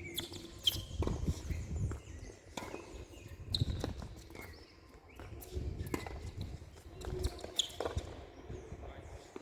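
Tennis rally: the ball struck by rackets and bouncing on the court, sharp hits every second or two, with footsteps on the court between them.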